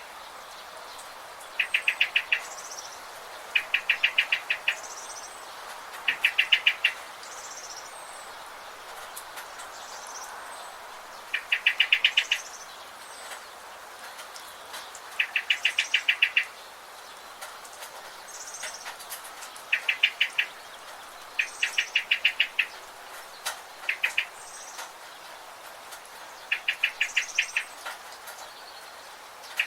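Birds calling in a forest, one repeating a fast trill of rapid pulsed notes in bursts of about a second, about nine times, with fainter short high chirps in between.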